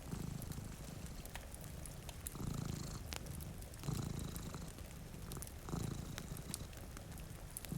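Domestic cat purring, swelling in slow cycles about every one and a half to two seconds with its breathing. Scattered crackles from a wood fire and a steady hiss of rain run behind it.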